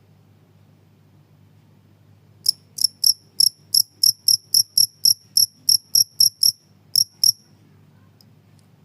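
Cricket chirping: a run of about seventeen short, high chirps, roughly three a second, starting a couple of seconds in and stopping shortly before the end, over a faint low hum.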